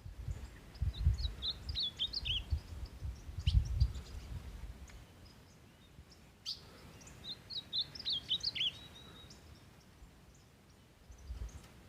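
A songbird singing two short phrases of quick, twittering chirps, about a second in and again about seven seconds in, the second ending in a brief held whistle. Low thumps and rumbles on the microphone, loudest in the first few seconds, run under it.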